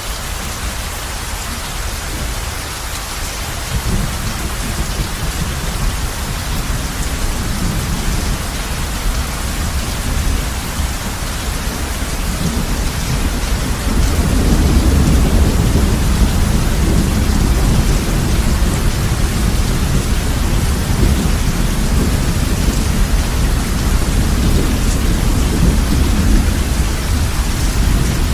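Heavy rain falling steadily on a roof, with a low rumble of thunder that builds a few seconds in and grows louder about halfway through.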